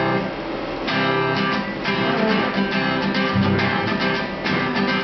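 Acoustic guitar strumming chords in a steady rhythm, the instrumental introduction to a song before the singing begins.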